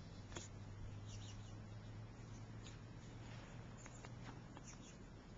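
Faint outdoor quiet: a steady low hum that fades out near the end, with a few faint, short, high ticks scattered through it.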